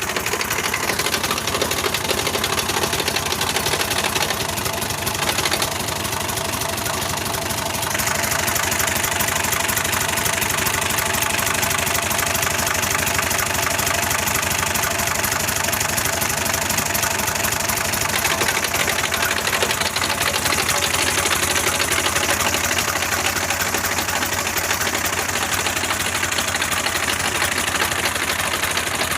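Tractor engine running steadily with a rapid, even firing beat, a little louder from about eight seconds in.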